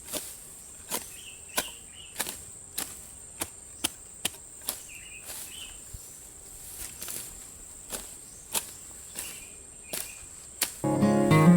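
Steady, regular chopping strokes of a hand blade cutting through grass and weeds, about one and a half strokes a second, over a continuous high insect drone. Music comes in loudly near the end.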